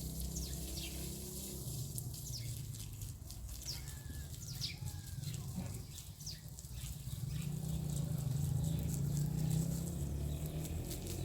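Outdoor rural background: birds giving short, high, falling chirps over a steady low rumble, with many light ticks and patter.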